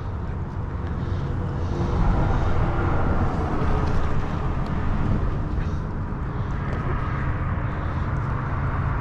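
Road traffic on the bridge overhead: a steady low rumble that swells about two seconds in, then eases a little.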